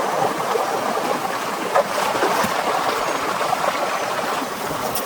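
Steady heavy rain, a dense even hiss with a few sharper drips among it.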